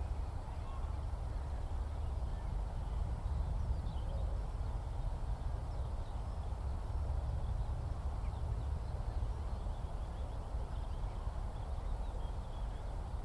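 Open countryside ambience: a steady low rumble with faint, scattered birdsong chirps above it.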